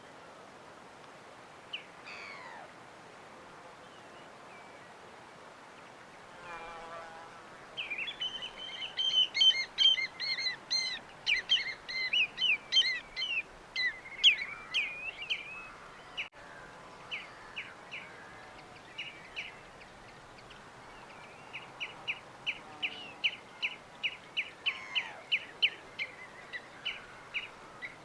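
Birds chirping. Scattered single calls come first, then a dense flurry of overlapping chirps from about a quarter of the way in to about halfway, then a quick run of repeated chirps near the end, all over a steady low background hiss.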